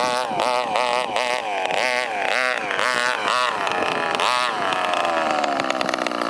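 Zenoah 23cc two-stroke gas engine in an FG large-scale RC car, revved up and down in quick repeated blips. About five seconds in, its pitch falls and it settles into a steady idle.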